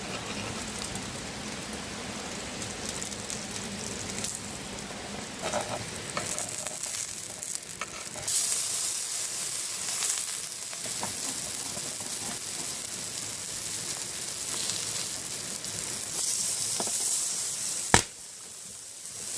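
Food sizzling and frying on a hot flat stone. The sizzle gets louder and hissier about eight seconds in, and a single sharp click comes near the end, after which the sizzle drops away.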